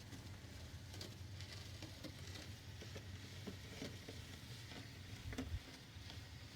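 Scattered light crunching and scraping in about an inch of fresh snow, over a faint steady low hum.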